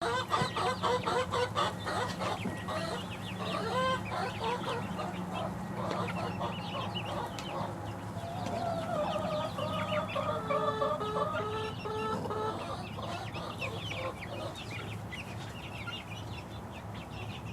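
A flock of six-week-old chicks peeping and trilling, many short calls overlapping, over a steady low hum. A sharp knock right at the end.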